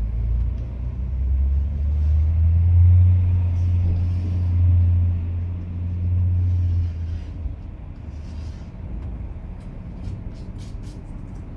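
A loud, steady low rumble that fades out about seven seconds in, followed by a few faint light clicks.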